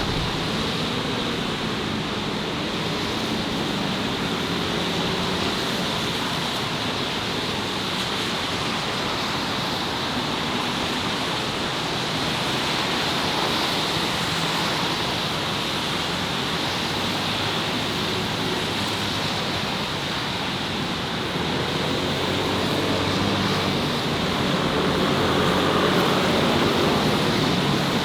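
Steady roar of road traffic, with the low hum of passing engines rising and falling, growing a little louder near the end.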